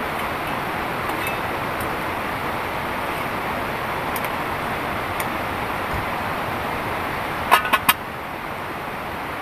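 Heavy rain falling steadily, a dense even hiss. Near the end, three sharp knocks come in quick succession.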